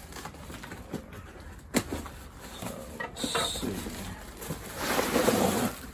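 Parcel packaging being opened by hand: a sharp click, then cardboard and wrapping rustling and crinkling, loudest near the end.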